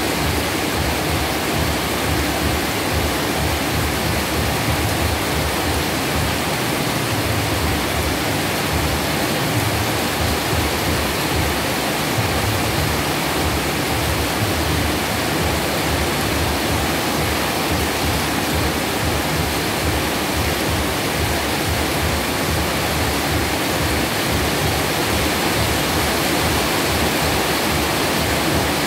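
Heavy tropical downpour: a steady, dense rush of rain with no let-up.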